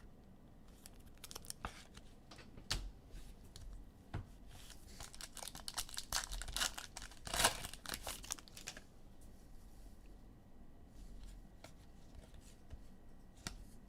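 Foil trading-card pack wrappers being torn open and crinkled by hand, in scattered short crackles that bunch up between about five and nine seconds in.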